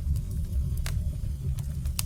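Wood fire burning: a steady low rumble of flames with several sharp crackles and pops, the strongest just under a second in and a few more near the end.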